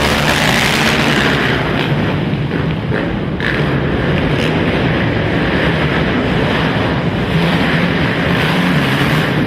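Several racing quad (ATV) engines running hard together, a loud, constant blend of engine noise.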